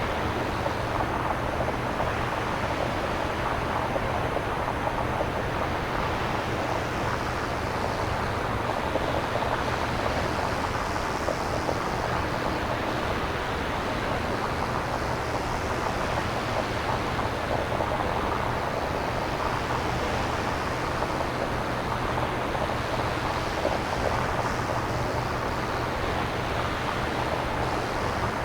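Synthesized nature-style noise with no samples: a steady rushing hiss that slowly swells and eases every several seconds, over a steady low rumble.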